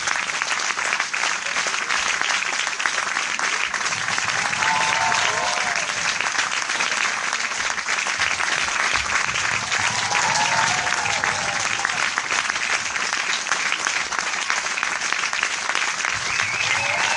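Large audience applauding steadily: dense, continuous clapping, with a few voices briefly heard through it now and then.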